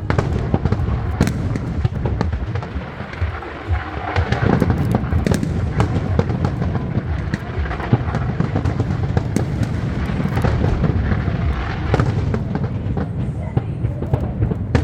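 Fireworks display going off: a rapid run of sharp bangs and crackles over a continuous low rumble, growing denser from about four seconds in.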